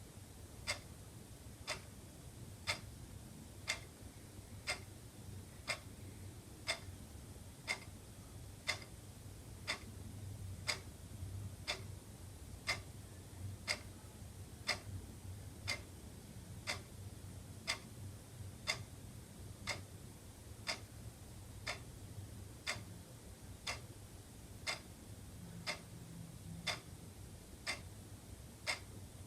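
Wall clock ticking steadily, about one tick a second, over a faint low hum.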